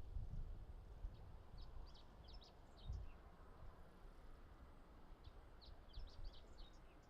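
A small bird chirping in quick runs of short, high notes, in two bursts a few seconds apart, over a faint low rumble.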